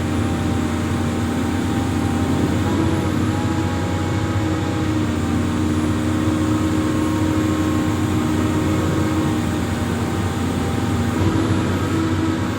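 Amphibious excavator's diesel engine running steadily, a loud low hum with tones that shift slightly in pitch a few times.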